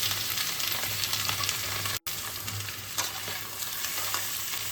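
Boneless chicken pieces sizzling in hot mustard oil in a kadai, being stirred, with a few faint clicks and scrapes of the spoon. The sound drops out for an instant about two seconds in.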